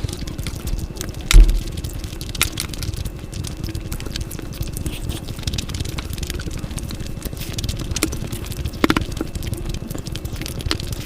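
Close-miked eating sounds: irregular crackling clicks of chewing and biting, with one loud thump about a second and a half in.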